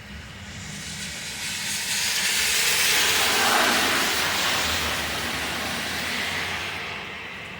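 A vehicle passing on a rain-soaked road: the hiss of tyres throwing up spray swells, peaks a few seconds in, then fades away.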